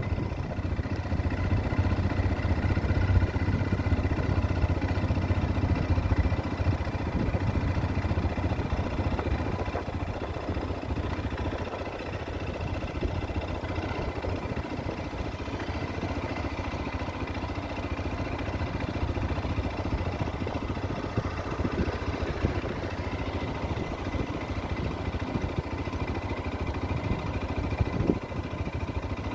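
Motorcycle engine running steadily at low revs, a little louder in the first several seconds.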